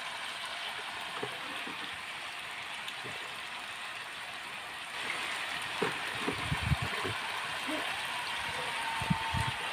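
Frog meat with chili sizzling in a wok as it fries, a steady hiss that grows louder about five seconds in. A few dull knocks from the meat being stirred and scooped come in the second half.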